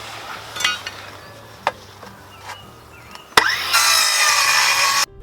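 A few light knocks as wood is handled, then about three and a half seconds in a cordless circular saw starts and cuts into pallet wood with a loud whine for over a second, cutting off suddenly.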